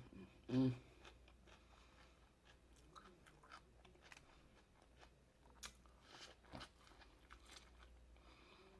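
Quiet close-up eating sounds: a person chewing seafood with soft mouth clicks and lip smacks.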